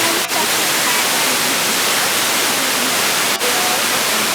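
Waterfall rushing: a loud, steady hiss of falling water, which drops out for an instant twice.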